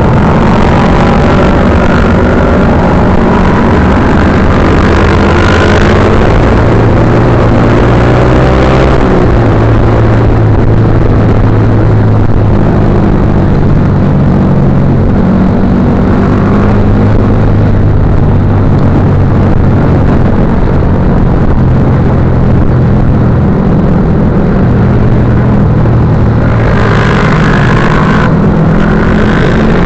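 Motorcycle engine running loud and steady, its revs rising and falling in a few places, with the clearest changes in the first several seconds and again near the end.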